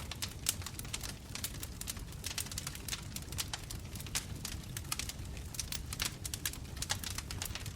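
Wood bonfire burning, its flames crackling with many sharp snaps, several a second, over a low steady rumble.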